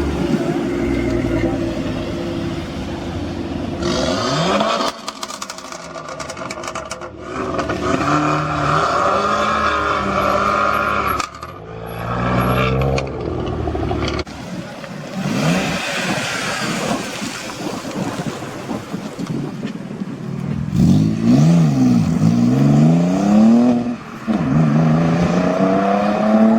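Modified cars' engines and exhausts revving and accelerating as they drive past one after another. From about twenty seconds in, one engine is revved sharply up and down several times, the loudest part, then climbs again near the end.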